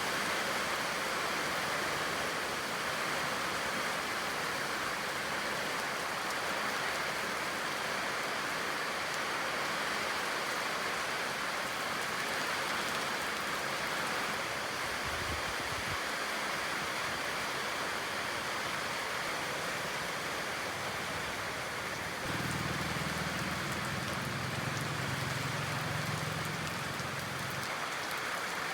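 Steady rain falling, an even hiss. A brief low thump comes about halfway, and a low hum joins for about five seconds near the end.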